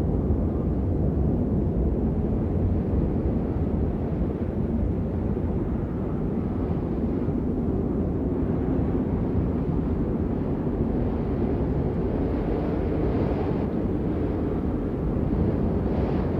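Steady rain noise, deep and rumbling with little high hiss, running evenly without a break.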